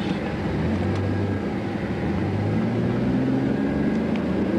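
Vehicle engine and road noise heard from inside the moving vehicle, a steady hum whose engine pitch shifts and rises slightly around the middle.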